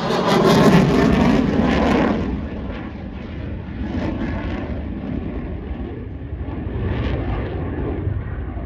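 Eurofighter Typhoon's two EJ200 jet engines, loud and harsh for about the first two seconds, then fading to a distant rumble as the jet moves away.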